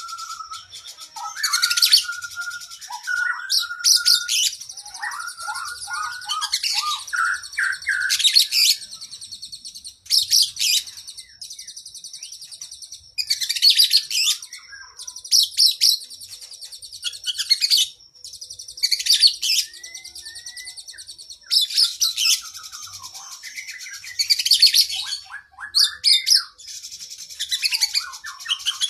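Oriental magpie-robin (kacer) singing a long, varied song: high, rapid chattering phrases every second or two, mixed with lower whistled and warbled notes.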